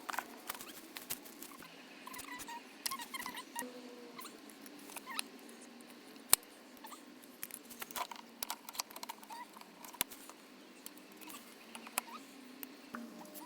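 Sped-up handling and assembly noises: a quick, irregular run of clicks, knocks and scrapes with short squeaky chirps. A sharp click about six seconds in is the loudest.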